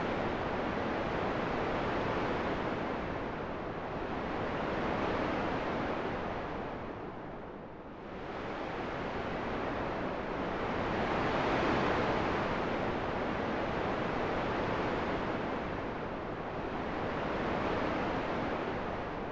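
Wind blowing as a steady rushing noise that swells and eases in slow gusts every few seconds, dropping away briefly a little before halfway through.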